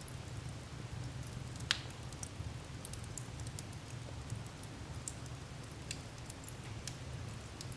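Wood fire burning in a fireplace: a steady low rumble of flames with scattered small crackles and pops, one sharper snap about two seconds in.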